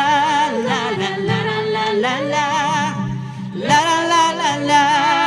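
Singing voices on a wordless 'la, la' refrain, with long held notes that waver in pitch. There are two phrases, with a short break about three and a half seconds in.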